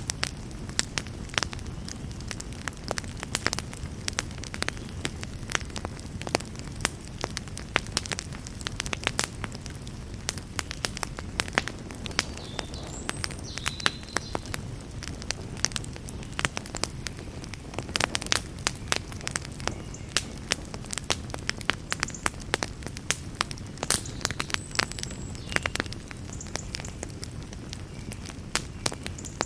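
Campfire of burning wood crackling, with frequent irregular sharp pops over a steady low rumble of the flames.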